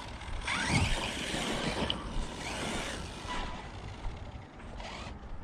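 Arrma Notorious RC monster truck's Spektrum 1250kv brushless motor whining as the truck is driven on 8S, its pitch rising and falling with the throttle several times.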